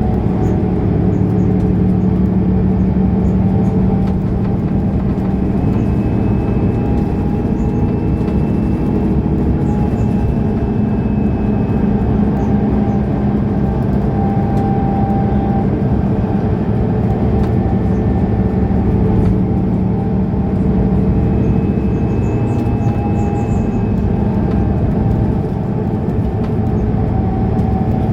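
Mercedes-Benz O530 Citaro Ü bus engine running steadily under way, heard from inside the bus with road and cabin noise. The loudness dips briefly near the end.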